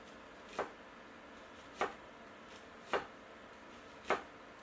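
Chef's knife slicing an onion thinly on a cutting board: four slow, even cuts, about one every second, each ending in a sharp tap of the blade on the board.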